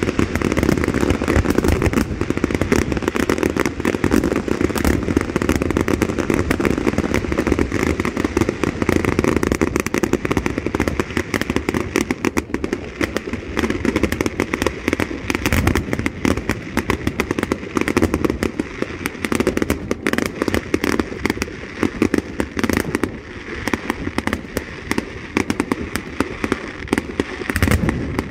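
Aerial fireworks display: a dense, continuous barrage of shell bursts and crackling, many sharp reports a second, easing off a little in the last few seconds.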